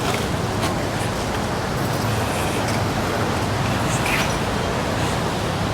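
Steady outdoor background noise, an even hiss with a low hum beneath it and a few faint ticks.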